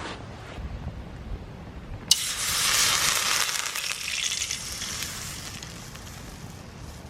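Food sizzling on a hot moo kata grill pan. The sizzle starts suddenly about two seconds in, as when food is laid on the hot surface, and then gradually dies down.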